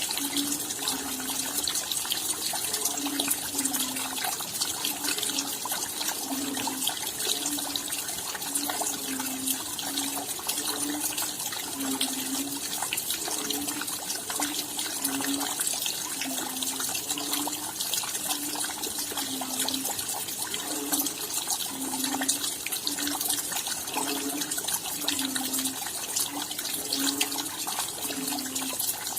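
Rain falling steadily, a dense hiss with many small drop ticks. Under it, a low short note repeats steadily a little more than once a second.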